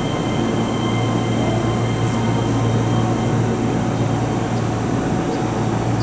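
Keihan electric train heard at the station: a steady, unchanging hum with a strong low drone and faint constant high whining tones.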